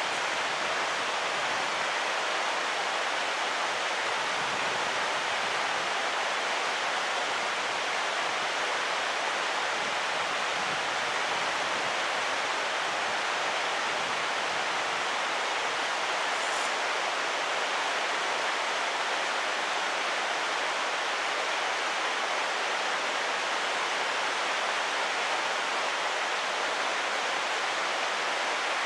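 Mountain stream water rushing over rocks: a steady, even wash of noise that holds at one level throughout.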